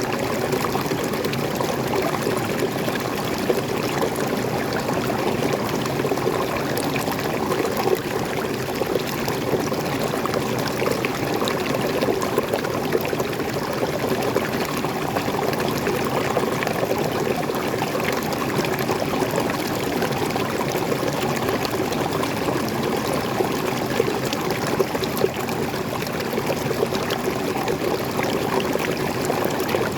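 Waterfall water flowing and splashing in an even, steady rush with fine trickling detail.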